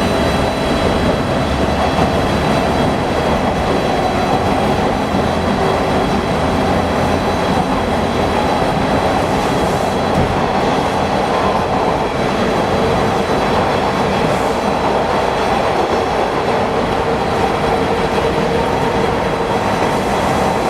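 Inside a TTC Bombardier T1 subway car running between stations: a steady rumble of steel wheels on rail, with a constant droning hum and some clickety-clack.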